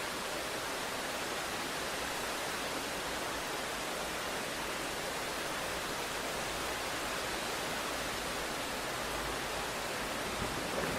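Steady, even hiss of heavy rain, with no separate drops or thunder standing out.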